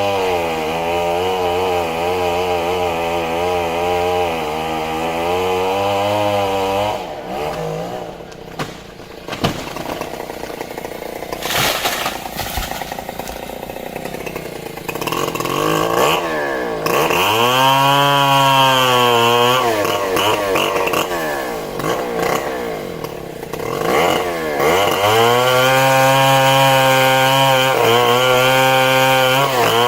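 Stihl chainsaw cutting into the trunk of a big trembesi (rain tree), running at high revs with its pitch wavering under load. About seven seconds in it eases off for several seconds, then revs up and cuts again twice, around the middle and through the last few seconds.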